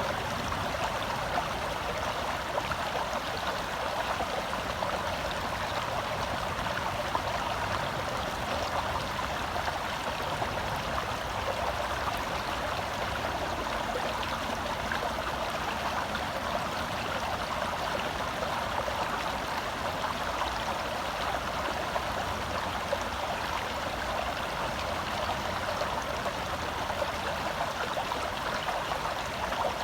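Shallow forest stream flowing and burbling over rocks, a steady rushing of water.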